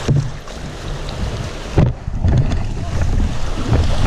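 Rushing rapids and paddle splashes around a tandem kayak, with wind buffeting the camera microphone in a low, gusty rumble. There is a sudden loud hit a little under two seconds in.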